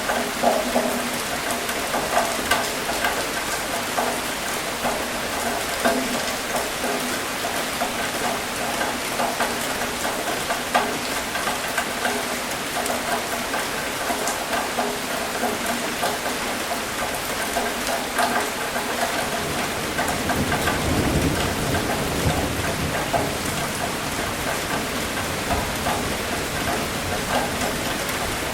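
Steady rain with many single drops striking a surface. About two-thirds of the way through, a low roll of thunder swells for a few seconds.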